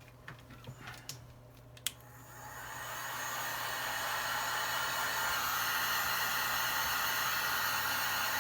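Heat gun switched on about two seconds in, its fan and hot airflow rising to a steady whir. A few light clicks of tools on the phone come just before it.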